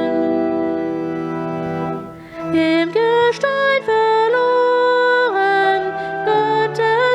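Organ playing in a church: a held chord fades away, then about two seconds in a new phrase begins, with a melody moving in steps over sustained chords.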